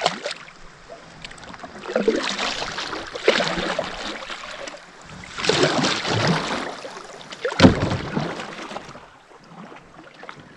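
Kayak paddle strokes in the water: about four swishing splashes a couple of seconds apart, fading out near the end.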